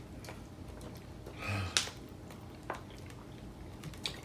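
Faint eating sounds from a takeout meal: a few sharp clicks of utensils and containers, with a short rustle ending in a click about a second and a half in.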